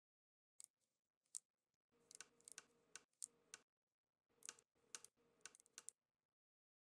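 Small plastic toy's footsteps: light clicking taps, a couple of single clicks and then two quick runs of about a second and a half each, with a faint steady tone under the runs.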